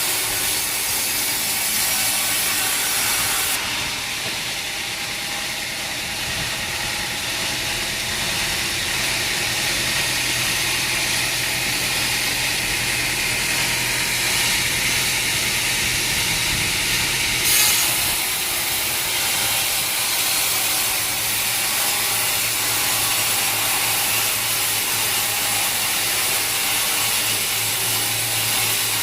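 Sawmill saw running steadily through wood, a constant machine hum under the noise of the cut, with a short sharp knock about halfway through.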